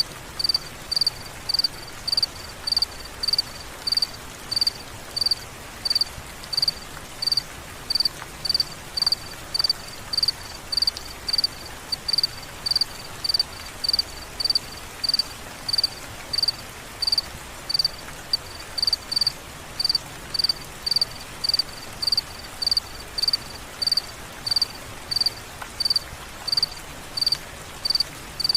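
A cricket chirping steadily, one high-pitched chirp about twice a second, over a faint steady hiss of rain.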